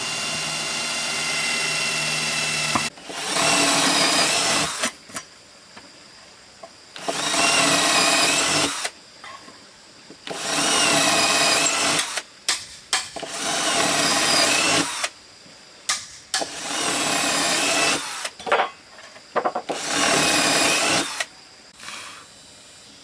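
Power drill running in repeated bursts of one to two seconds, its motor pitch dipping and recovering under load, as when drilling or driving screws into wood. It runs steadily at first, then stops and starts about six times.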